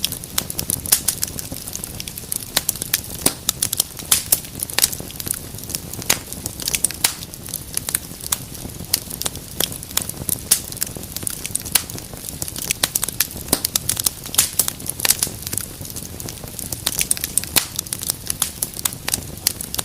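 Wood fire burning in a fireplace, crackling with many sharp irregular pops and snaps over a low steady rumble of the flames.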